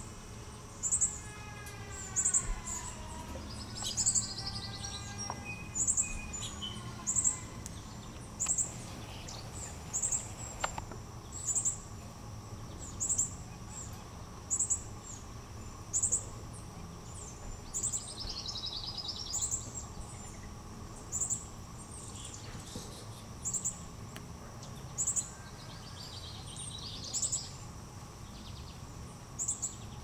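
Birdsong: a short, high chirp repeated evenly about every second and a half, with a falling run of whistled notes in the first few seconds and other brief bird calls now and then.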